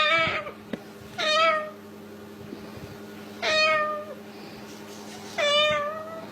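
Four meow-like calls, each about half a second long and a second or two apart, each sliding down slightly at the end.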